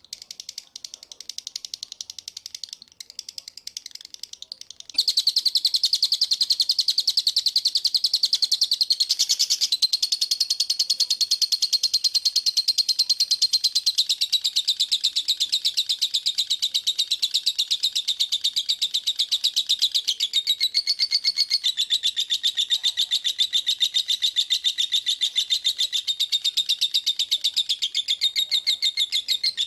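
Songbird singing a fast, dense run of high chirping notes with no breaks: a 'speed rapat' master song used to train caged birds. It starts softer and gets suddenly louder about five seconds in, then holds steady.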